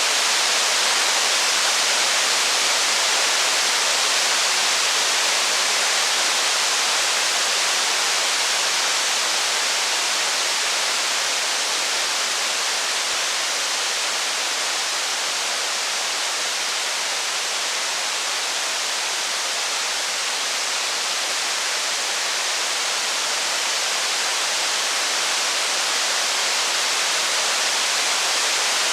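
Steady heavy rain, a dense even hiss with no crackles or thunder standing out, easing slightly in level midway and swelling back.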